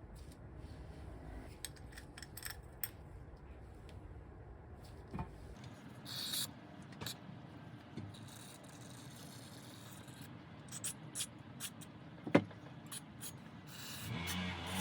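Small parts being handled by hand: scattered light clicks and short rubbing and scraping noises, with one sharp click about twelve seconds in.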